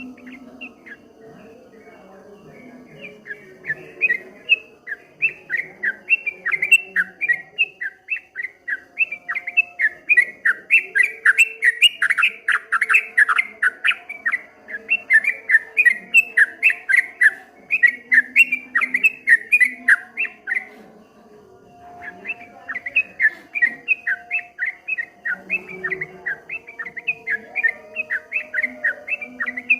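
Yellow-vented bulbul (trucukan) singing a fast, rolling run of chirpy notes in the 'ropel' style. The run breaks off for about a second two-thirds of the way through, then starts again.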